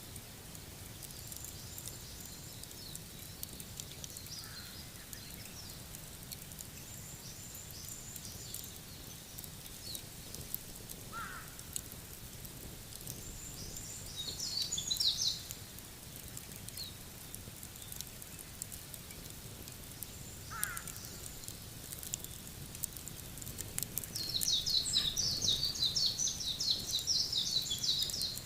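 Wood fire crackling with scattered small pops over a low, steady outdoor background. A songbird chirps rapidly in a short burst around the middle and in a longer run near the end, with a few single lower call notes in between.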